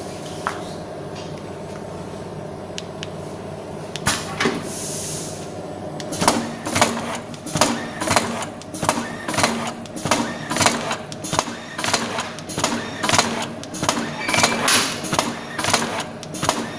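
Automatic screen-printing machine running: a steady motor hum, then about six seconds in a fast, even clacking of the mechanism, roughly one to two strokes a second.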